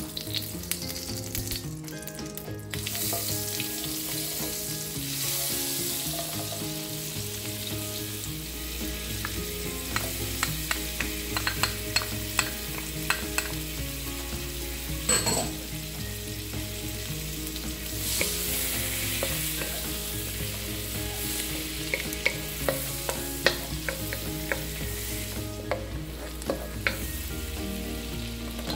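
Butter and chopped garlic sizzling in hot olive oil in a wok, with a steady hiss and many short, sharp crackles.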